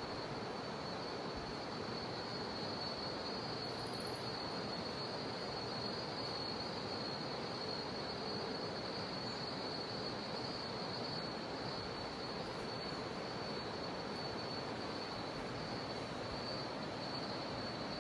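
Steady rush of river water, with a continuous high-pitched drone of cicadas held over it.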